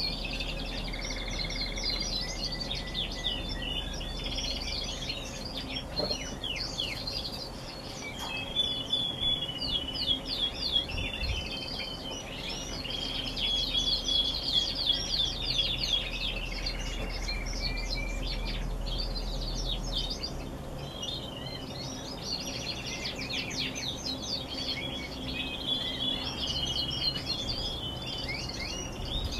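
Canaries singing together: dense, overlapping fast trills and held rolling tones, continuous and high-pitched.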